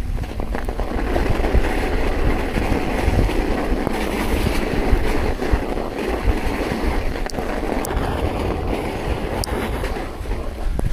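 Steady rushing noise of a ride through fresh snow, with wind buffeting the microphone as a deep rumble and a few sharp clicks near the end.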